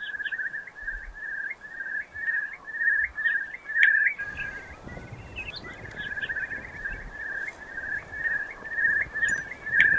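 Eurasian curlew giving its bubbling song: a long run of rapidly repeated notes, each rising into a trill, which the listeners call rolling and bubbling.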